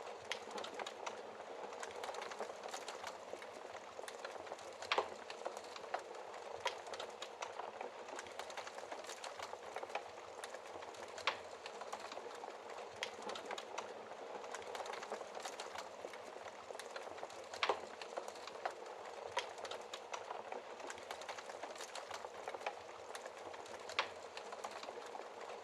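Wood fire crackling in a fireplace: a steady fine crackle with frequent sharp snaps and a few louder pops.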